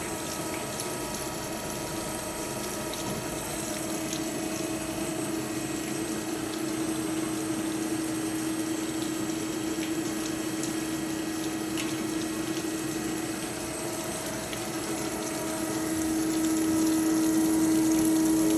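Kasto Twin A4 horizontal band saw running through an automatic cut, its motor and pump humming steadily with coolant flowing. The hum grows louder over the last few seconds.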